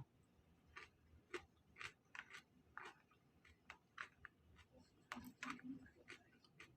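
Faint chewing: a person eating, with soft, irregular wet mouth clicks about once or twice a second.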